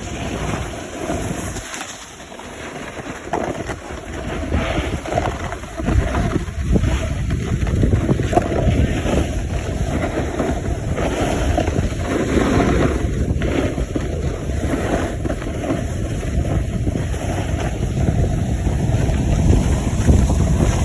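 Wind buffeting the microphone with a steady rushing noise, louder from about six seconds in.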